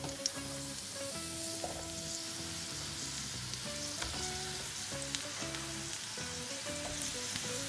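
Sliced mushrooms sizzling steadily as they fry in oil and butter in a skillet, with a few light clicks of stirring. Soft background music plays underneath.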